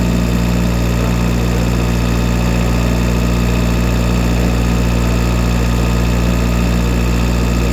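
Tractor engine running steadily at an even speed, with a constant low hum and no revving.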